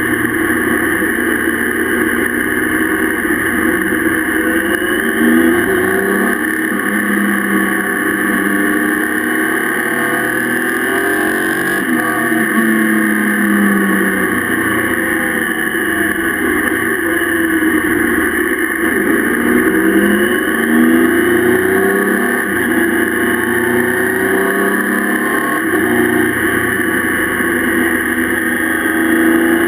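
Motorcycle engine running at road speed, its pitch rising and falling again and again as the bike accelerates, eases off and changes gear, over steady wind and road noise.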